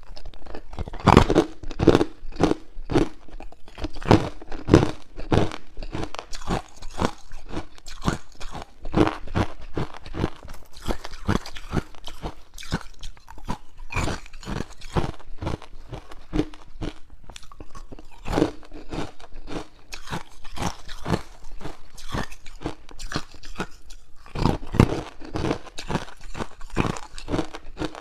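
A person biting and chewing hard ice cubes close to the microphone: a run of loud, irregular crunches, a few a second, with louder bites near the start and again near the end.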